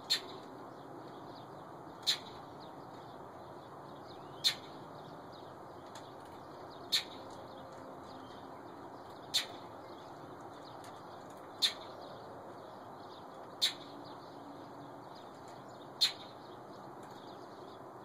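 A hungry bird calling over and over: a short, sharp, high call repeated eight times at an even pace, about one every two to two and a half seconds.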